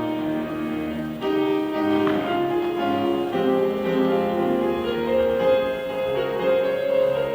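Piano playing an instrumental introduction, sustained chords and melody notes.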